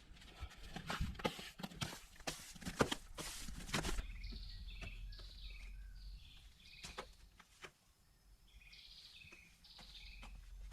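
Quick knocks and rustling clicks for the first few seconds, then a bird calling in repeated short chirps, in two runs separated by a brief pause.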